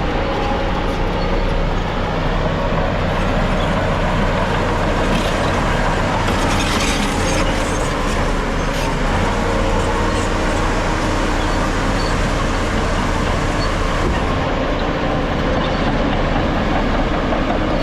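Heavy diesel earthmoving machinery, a bulldozer at work, running steadily under load, with a few brief metallic clanks.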